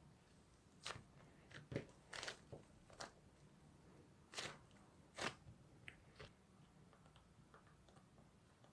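Slime being pressed and kneaded by hand, giving faint, scattered, sharp clicks and pops that thin out after about six and a half seconds.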